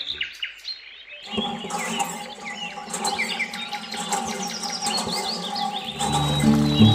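Small birds chirping in rapid, quick falling calls over steady background music, with the music's bass coming in near the end.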